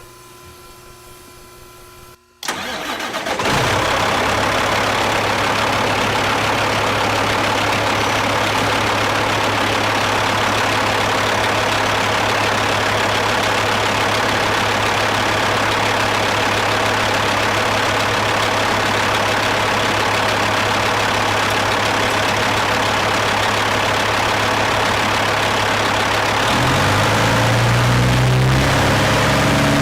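A faint steady hum of the AirDog electric lift pump running with the key on. About two and a half seconds in, the Caterpillar 3406E inline-six diesel cranks and fires, then settles into a steady idle. Near the end the idle speed rises a little.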